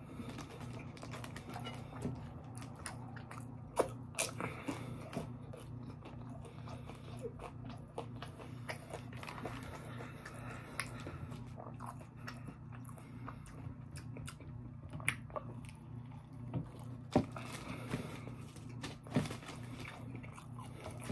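Close-up chewing and biting of crispy fried fast food, with irregular crunches and wet mouth clicks, the sharpest about 4 s and 17 s in. A steady low hum runs underneath.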